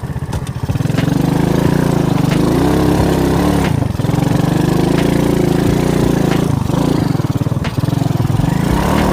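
Alpha moped's small single-cylinder four-stroke engine pulling under load, its pitch rising and falling several times as the throttle is opened and eased. A few short knocks come in over it as the bike jolts on rough ground.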